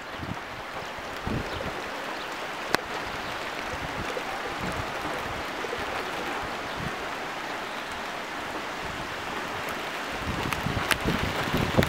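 Steady rain falling, with wind buffeting the microphone from about ten seconds in and one sharp click about three seconds in.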